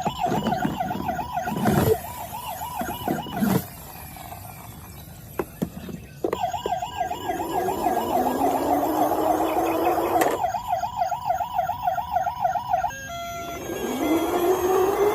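Toy vehicle's electronic siren warbling rapidly. It cuts out and starts again twice. There are a few plastic knocks in the first few seconds, and a rising engine-rev whine sounds under the siren in the middle and again near the end.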